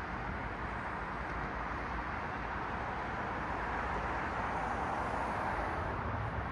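Road traffic: passing cars make a steady tyre hiss, swelling about four to five seconds in as a car goes by closer.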